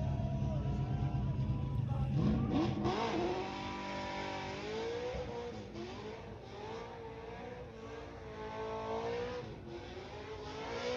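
A car engine doing a burnout: it runs steadily at low revs, revs up sharply about two seconds in, then stays at high revs with its pitch wavering up and down.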